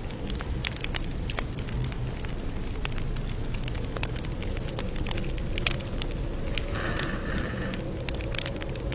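Campfire burning, with irregular sharp crackles and pops over a steady low rumble of the flames; a brief hiss about seven seconds in.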